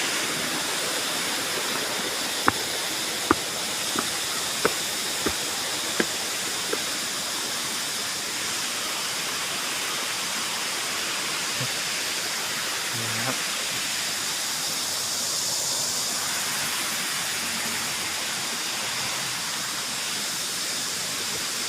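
Waterfall rushing steadily. A run of about seven sharp clicks comes in the first seven seconds.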